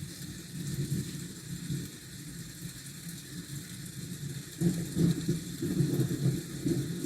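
Low, uneven rumble of city traffic over a steady hiss of rain; the rumble swells louder a little past halfway.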